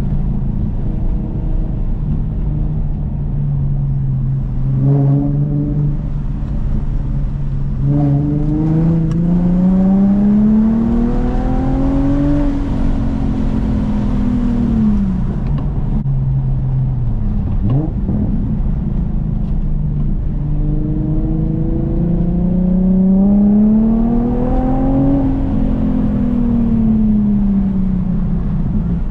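Infiniti G37S coupe's 3.7-litre V6 through a custom 3-inch single catback exhaust, driving along. The engine runs steadily, then climbs in revs twice and eases back down each time.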